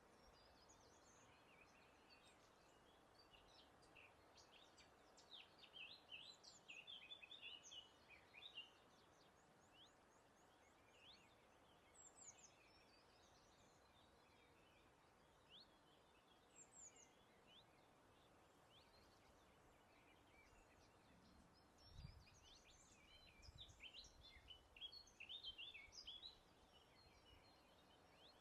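Songbirds singing faintly over a soft, even breeze. Quick high chirps and trills come in two busy bursts, about five seconds in and again in the last third, with scattered single calls between.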